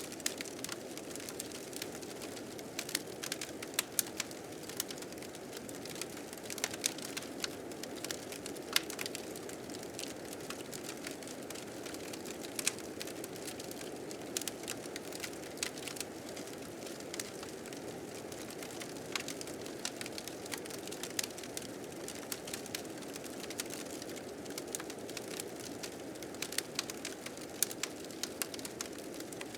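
Wood fire crackling, with sharp pops at irregular moments, over a steady low rush of blizzard wind.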